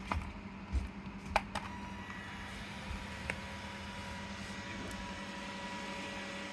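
A few sharp clicks, then a steady high electric whine starts about a second and a half in over a low hum: a small electric motor running.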